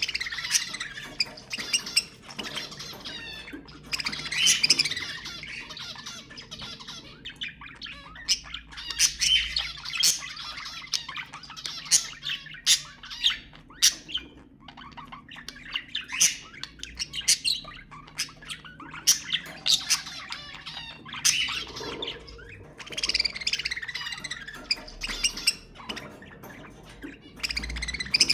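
Budgerigars chattering and warbling continuously, broken by many short sharp squawks and clicks.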